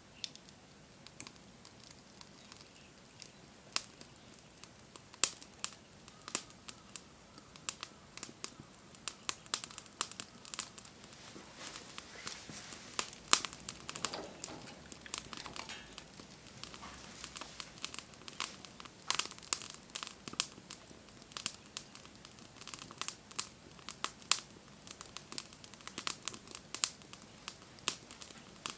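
Campfire crackling, with sharp irregular pops and snaps that grow more frequent after the first several seconds.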